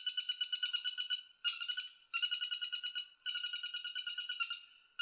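Woodpecker calling in fast rattling phrases, each a rapid string of high, sharp notes, about a dozen a second, with short breaks between phrases.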